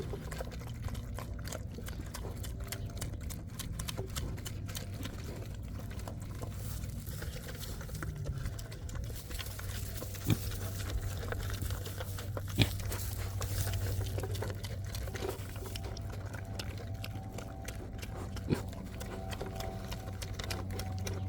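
Mini pigs eating from bowls, chewing and crunching their food noisily, over a steady low hum. Three sharp knocks come about ten, twelve and a half and eighteen and a half seconds in.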